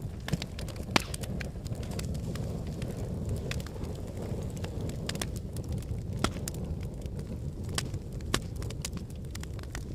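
Wood fire burning in a fireplace: a steady low rumble of flames with frequent sharp crackles and pops, the loudest about a second in and again near the middle.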